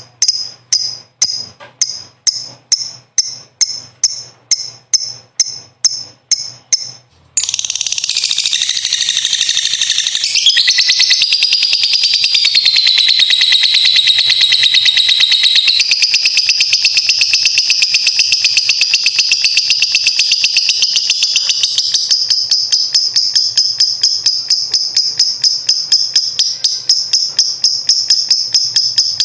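Lovebird singing: sharp high chirps at about three a second, then about seven seconds in it breaks into a long, unbroken, rapid high trill, the long 'ngekek' song, whose pitch shifts twice.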